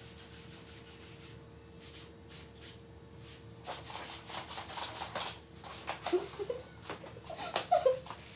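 A rapid run of rubbing, scraping strokes starting a little past a third of the way in, with a few short squeaks near the end.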